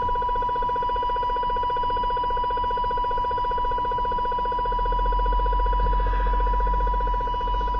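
RF interference on a CB radio receiver on channel 29: a steady tone with a rapid, even pulsing buzz over it. The uploader matches it to the interference from an LED plant grow light.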